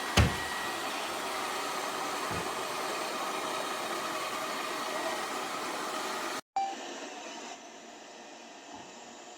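Lefant M210 Pro robot vacuum running with a steady whirring hiss, and a sharp knock just after the start. About six and a half seconds in the sound cuts briefly, then a click and a quieter steady hiss.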